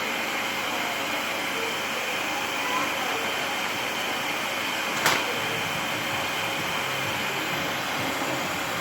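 Vacuum cleaner running steadily, with a steady whine, and one sharp click about five seconds in.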